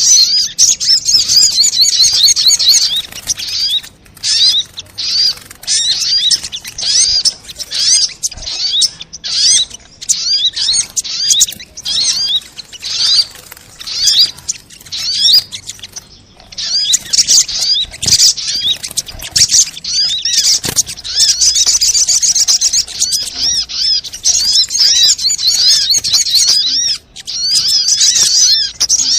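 Little spiderhunter (sogok ontong) calling: rapid runs of sharp high chirps, repeated in bursts with short breaks and a brief lull about halfway through.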